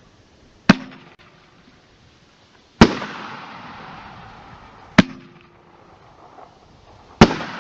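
Aerial firework breaks: four sharp bangs about two seconds apart, the second and fourth trailing off in a long hiss.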